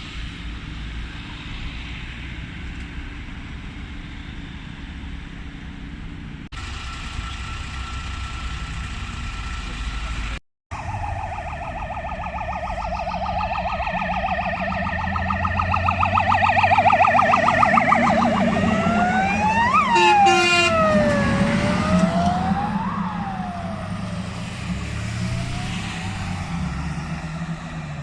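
Fire engine's siren on an emergency run, first a fast warbling yelp, then a slower rising-and-falling wail, growing louder as it approaches and fading as it passes. A brief horn blast sounds near the loudest point. Before the siren starts, steady traffic and engine noise.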